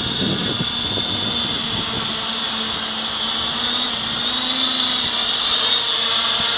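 Quadcopter's electric motors and propellers running steadily in flight, a high whine with a lower hum beneath. Irregular low rumbling, strongest in the first second, is wind buffeting the microphone.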